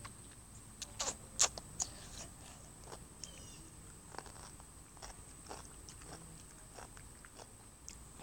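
Scattered, irregular clicks and crackles, with a cluster of sharper ones between one and two seconds in, over a faint steady high-pitched whine.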